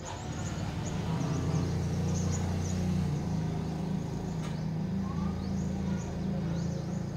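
A steady low rumble with many short, high chirps of small birds over it.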